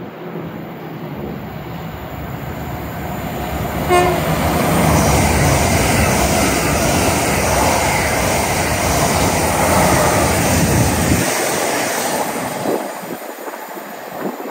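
A train passing through the station at speed, with one brief horn note about four seconds in as it arrives. Loud wheel-and-rail rolling noise follows for about eight seconds, then fades away.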